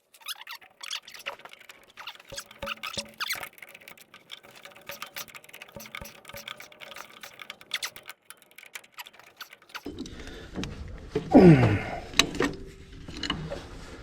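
Small metal clicks and clinks of hand tools and hardware, typical of a ratchet turning nuts and lock washers onto U-bolts. About eleven seconds in, a louder sound slides down in pitch over a low rumble.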